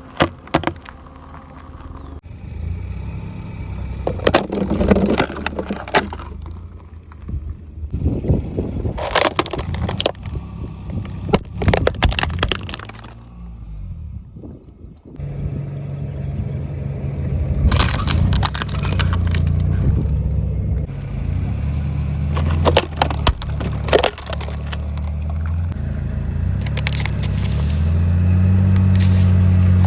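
Car tyres rolling over and crushing brittle objects: several clusters of sharp cracks and snaps over the low running of the car's engine. Near the end the engine grows louder and steadier.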